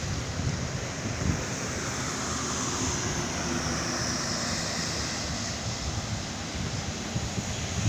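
A truck on the move: steady engine rumble with road and wind noise.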